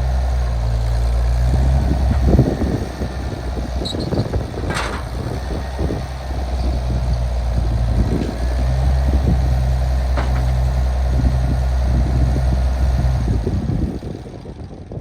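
An engine running at a steady low speed, with frequent knocks and rattles over it; it fades down near the end.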